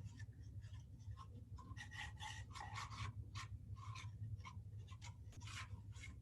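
Wooden popsicle stick scraping a thick, sticky spread onto a cardboard toilet paper roll: faint, irregular rubbing and scraping strokes over a low steady hum.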